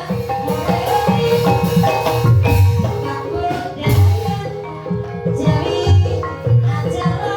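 Banyumasan gamelan music of the kind played for ebeg: struck keyed percussion playing a busy melody over deep drum beats.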